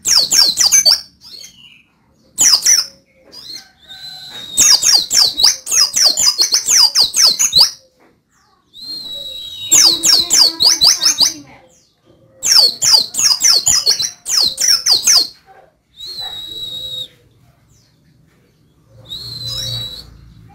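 Pleci (white-eye) songbird singing: about seven bursts of fast, high chirping notes, several opening with a held whistle, broken by short pauses.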